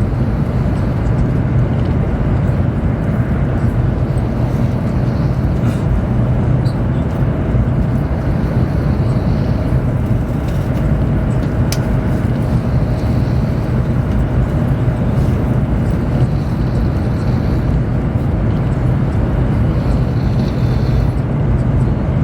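Steady low rumble and rushing noise inside the carriage of a Chinese high-speed train running at speed, with a single faint click about twelve seconds in.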